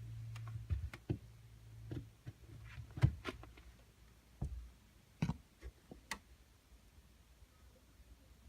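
Scattered sharp clicks and light knocks in an attic, irregular, with one louder knock about three seconds in, over a low hum that fades out after the first couple of seconds.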